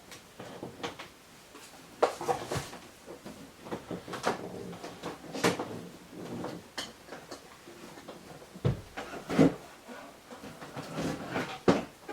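Irregular knocks, clunks and rattles of a television being lifted down and handled, the loudest bumps about two seconds in and near nine seconds.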